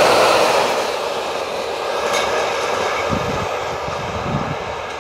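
Freight train of gas tank wagons rolling past close by, wheels running on the rails, the sound fading steadily as the last wagons pass and the train moves away. A few low thumps in the second half.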